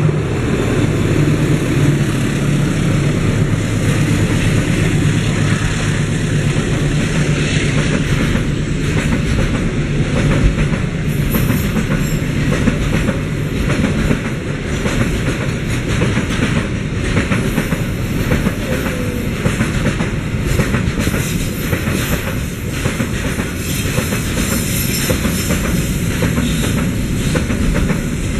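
Long container freight train rolling past, the wheels of its flat wagons clattering over the rail joints in a steady run of clicks over a rumbling roll. A low steady hum at the start fades out within the first few seconds.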